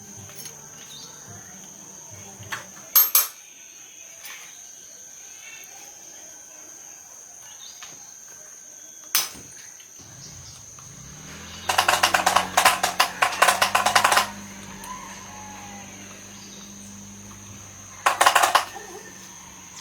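Small metal parts being handled on a workbench: a few sharp clinks, then a couple of seconds of rapid metallic rattling about twelve seconds in, and a shorter rattle near the end.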